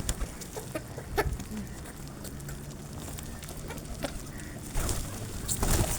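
Birds at scattered feed: calls like clucking, with many short sharp clicks and taps spread through.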